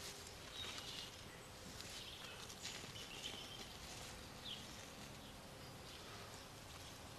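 Quiet outdoor garden ambience with a few short, high bird chirps, and soft rustling of loose soil being crumbled by hand over a set mole trap to fill in the hole.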